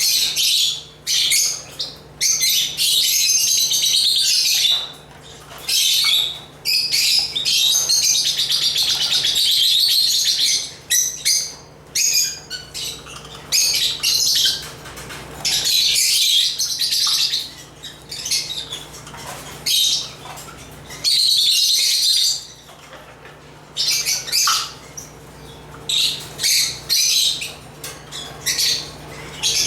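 African lovebirds (Agapornis) chattering and chirping, high-pitched and fast, in bouts of a second to several seconds broken by short lulls.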